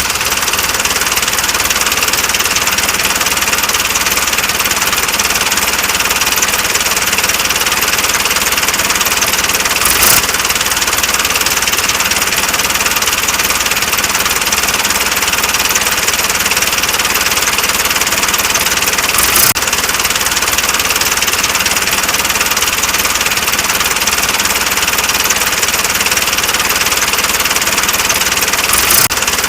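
Mini tractor's engine running steadily, with a brief sharp knock about ten seconds in, another near twenty seconds, and one near the end.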